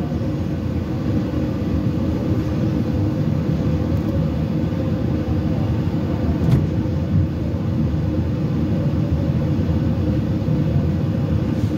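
Inside a Talgo passenger coach rolling slowly out of a station: a steady low rumble of the running gear with a constant hum, and a brief knock about halfway through.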